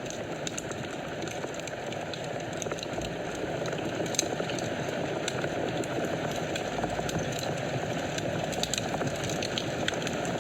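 Wood fire burning in a fireplace: a steady low rush of flame with frequent small crackles and pops, one sharper pop about four seconds in.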